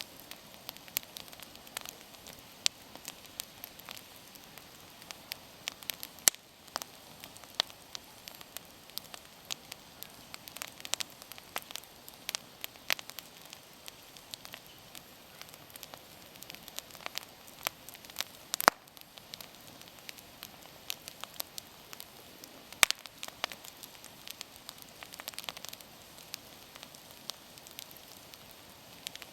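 Wood bonfire burning, crackling with irregular sharp pops and snaps over a soft steady hiss; two pops stand out, about two-thirds of the way through and a few seconds later.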